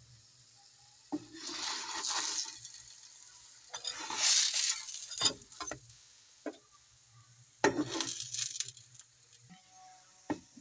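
Layered paratha frying in ghee on a tawa griddle, its sizzle swelling in three surges: about a second in, around four seconds and near eight seconds. Between them come a few short clinks of a spatula against the griddle.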